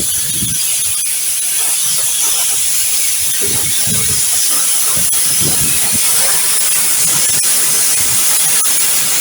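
Steam locomotive letting off steam: a loud, steady hiss, with weaker low sounds coming and going underneath.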